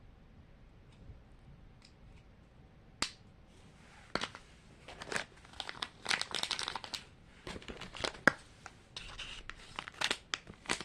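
A small plastic wrapper around a Mini Brands miniature being torn open and crinkled by hand, in irregular bursts. A single sharp click about three seconds in comes before the tearing starts.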